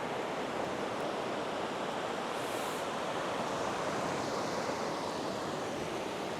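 Steady wash of sea surf breaking on a sandy beach, with some wind noise.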